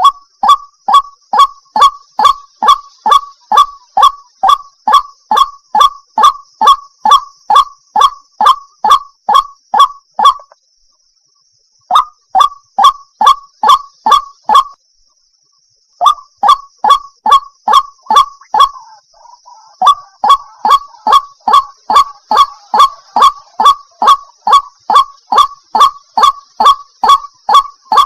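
White-breasted waterhen (ruak-ruak) call played as a bird-lure recording: a short, falling note repeated about twice a second, broken by two pauses of about a second and a half, near ten and fifteen seconds in. A faint steady high hiss runs underneath.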